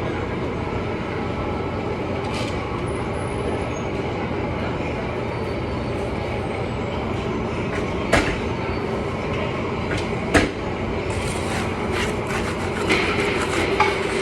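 Steady low rumbling background noise, with two sharp knocks about eight and ten seconds in and a few lighter clicks near the end.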